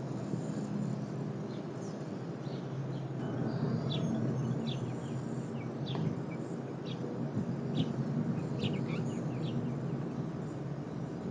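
Short, high bird chirps, a dozen or so, come loosely in the middle of the stretch over a steady low hum.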